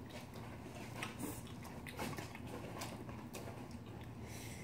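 Faint chewing: scattered soft mouth clicks and smacks of someone eating cold bibim naengmyeon noodles and stir-fried green onion, over a low steady hum.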